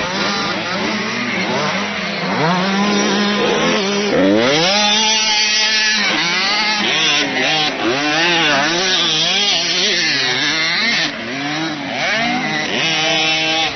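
Motocross bike engines revving up and down as the riders open and close the throttle and shift, with several engine notes rising and falling over one another.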